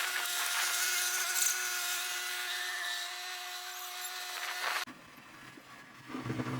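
Machine whine from a RIPPA RS06-2 skid steer loader working, steady with a high mechanical hum. It cuts off abruptly about five seconds in, and a fainter, lower engine hum comes in near the end.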